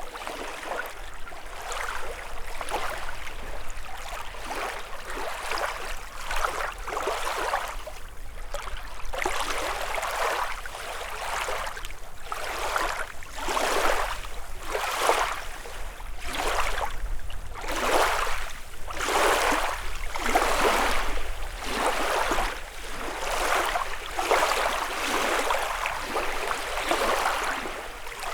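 Small lake waves lapping and washing onto the shore, one wash about every second, growing a little stronger from about halfway through.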